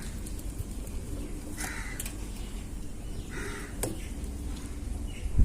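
A crow cawing twice in the background, the calls a couple of seconds apart, with a single sharp click between them.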